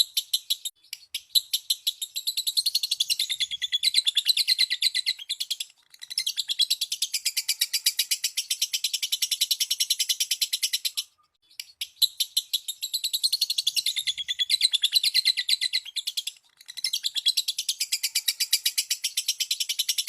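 Lovebird chattering song (ngekek): long runs of rapid, high, shrill chirps, each run lasting several seconds, broken by three brief pauses.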